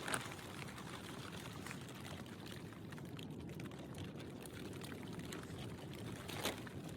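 Steady rushing noise of a strong windstorm, with a few faint ticks and a small knock just after the start.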